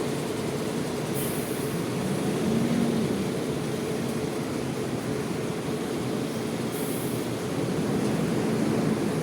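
Diesel bus engines running steadily in a low drone that swells twice, with two short high hisses, about a second in and near seven seconds.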